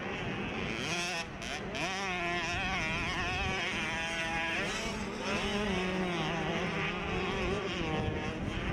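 Several 65cc two-stroke motocross bikes racing, their engines revving up and down in overlapping, wavering pitches.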